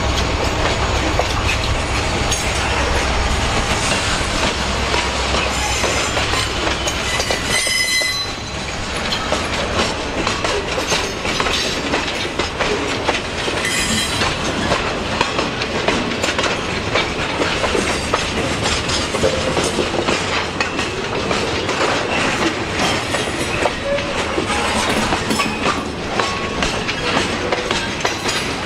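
Freight train of loaded log cars rolling past close by: a steady rumble and clatter of wheels over the rail joints. A low diesel drone from the EMD SD40-2 locomotive drops away after about seven seconds, and a brief high wheel squeal comes about eight seconds in.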